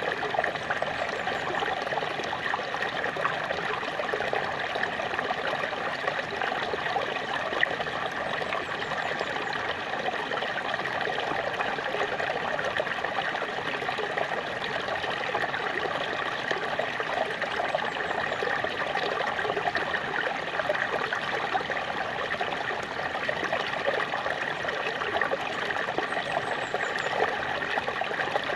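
Small waterfall splashing and trickling steadily, water falling onto water with a bright, splashy patter.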